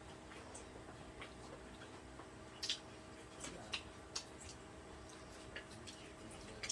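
Faint, irregular light clicks and taps of utensils at a meal, the sharpest about three seconds in, over a faint steady hum.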